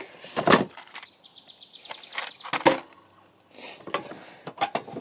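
Handling noise from a phone being picked up and moved: a couple of sharp clunks, about half a second and two and a half seconds in, with rubbing and scraping between them.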